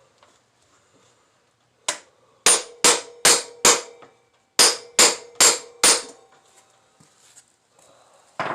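Hammer blows on a stuck metal shaft, ringing metal on metal: one strike, then two runs of four quick blows with a short pause between, as the shaft is driven but will not go through.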